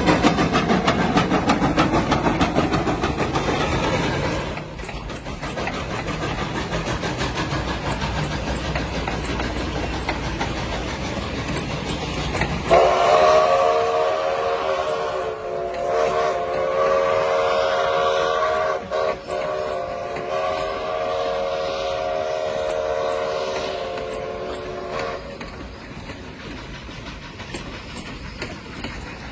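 Train running past with rumbling and wheel clatter; about thirteen seconds in it sounds one long chord-like warning blast that lasts about twelve seconds, broken twice briefly near the middle.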